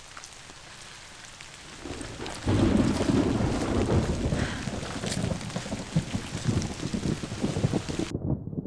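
Steady rain hiss, then about two and a half seconds in a loud rumble of thunder breaks over heavy rain and carries on, crackling, to the end.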